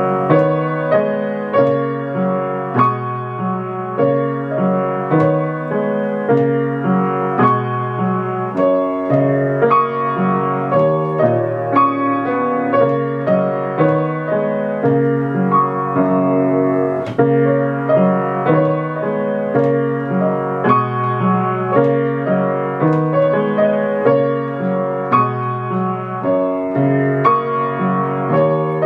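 Solo piano playing a short student piece: a steady, even rhythm of struck notes, with a low bass line under a higher melody.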